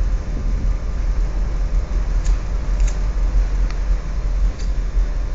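Steady low drone of a fishing vessel's onboard machinery heard from on deck, with a few faint clicks in the middle.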